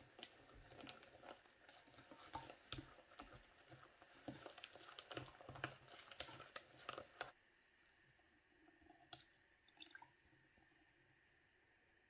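Faint small clicks, taps and soft rustling from hands handling things while baking, busy for about seven seconds and then mostly quiet with a few single clicks.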